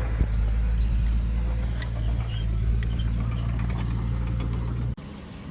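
Heavy earthmoving machine's engine running steadily with a low drone and faint scattered clanks; the sound drops off abruptly near the end.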